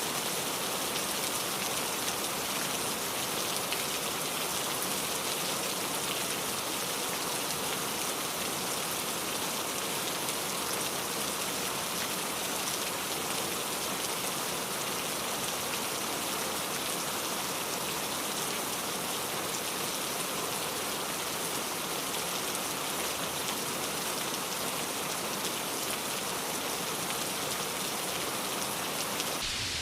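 Steady heavy rainfall, a dense even patter of drops hitting surfaces. Just before the end the sound changes abruptly to a fuller rain with more low rumble and less top hiss.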